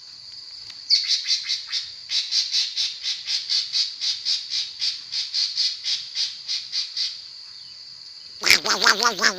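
A songbird singing a long run of rapid repeated chirps, about four or five a second, with a short break early on. Near the end it switches to a harsher, lower chattering phrase. A steady high-pitched buzz runs underneath.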